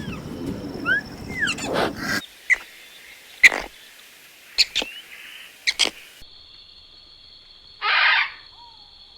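A string of short animal calls: quick chirps at first, then several sharp single calls a second or so apart, and one brief rough call near the end.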